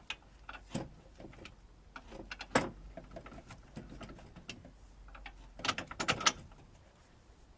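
Scattered metallic clicks and knocks of tools and suspension parts being handled while the shock absorber assembly is fitted back into the car. There is one sharp knock about two and a half seconds in and a quick run of louder clicks around six seconds in.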